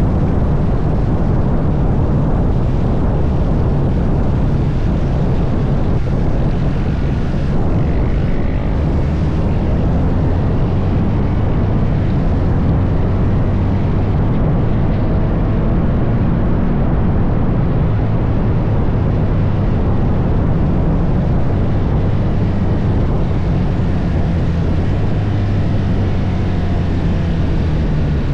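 Motorcycle engine running steadily while riding, its pitch shifting a little with the throttle, over a constant rush of wind and road noise.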